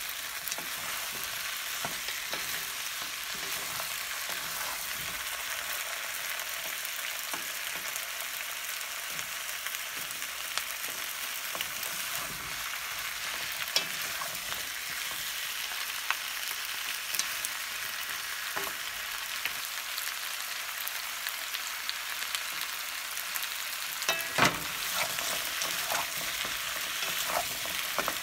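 Sliced potatoes, carrots and onion sizzling steadily in oil in a pan for Korean potato stir-fry (gamja-bokkeum), turned with wooden spatulas that knock and scrape against the pan now and then, with a short cluster of louder knocks about 24 seconds in.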